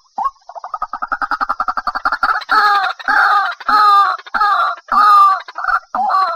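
White-breasted waterhen calling, a recording used as a trapping lure: a fast run of short notes builds up over about two seconds, then loud drawn-out calls follow, roughly one every two-thirds of a second, turning shorter near the end.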